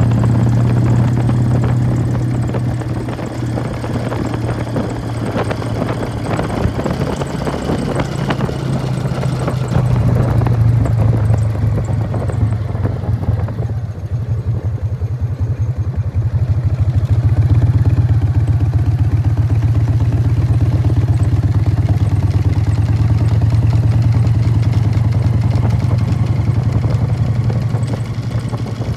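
1999 Harley-Davidson Fat Boy's Evolution V-twin running through Python mufflers while riding, a loud steady exhaust note. It eases off about halfway through, then pulls harder again from a little past the middle.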